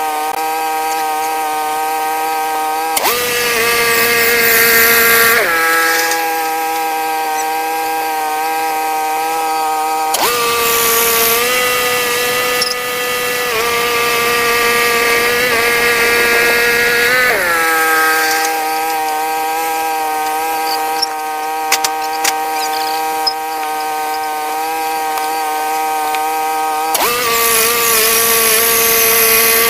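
Portable band sawmill running continuously, sawing a pine log. Its steady whine steps up in pitch and drops back several times, with a hiss of cutting during the higher stretches.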